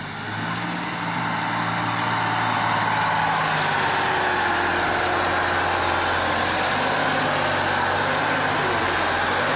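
A motor vehicle's engine running steadily under an even road roar, getting louder over the first two seconds and then holding steady.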